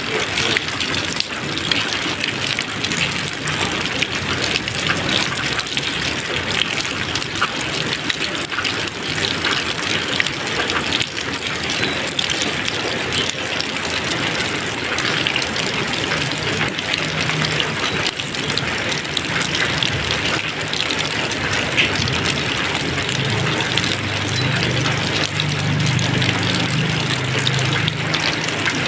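Steady rain: a constant, dense hiss of many drops falling.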